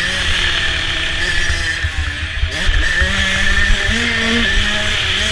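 Motocross dirt bike engine ridden hard, revving up and down as the throttle opens and closes, with a sharp drop and climb in pitch about halfway through. Over it runs a steady rushing hiss with uneven low rumble, like wind on the microphone.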